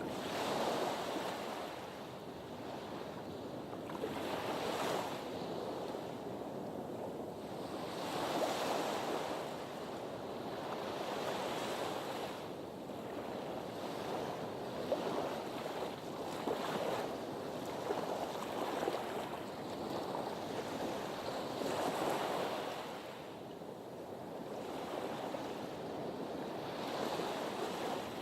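Sea waves washing against a harbour breakwater. The surf noise swells and eases every few seconds as each wave comes in.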